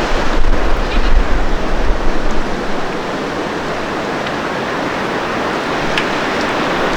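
Blizzard wind blowing across the microphone: a steady loud rush, with heavy low buffeting gusts over the first two seconds or so.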